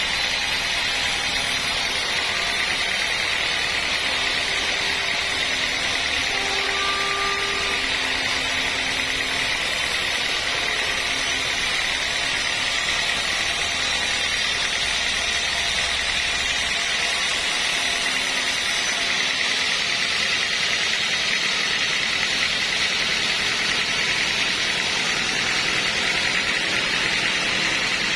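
Sawmill machinery running steadily, a constant loud mechanical noise with no breaks.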